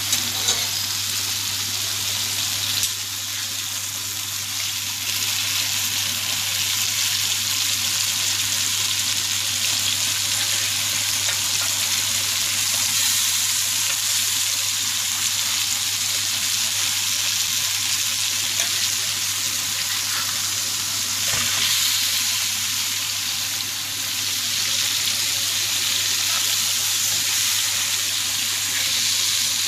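Chicken pieces frying in hot oil on a tawa, a continuous steady sizzle with a few faint clicks, over a steady low hum.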